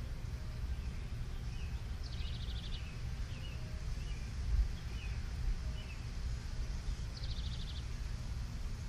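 Small birds calling: two quick high trills, about two seconds and about seven seconds in, with short chirps between them, over a steady low rumble.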